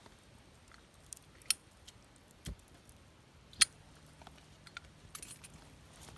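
Wood fire crackling, with scattered sharp pops, the two loudest about a second and a half and three and a half seconds in, a soft low thump between them, and a run of small ticks near the end.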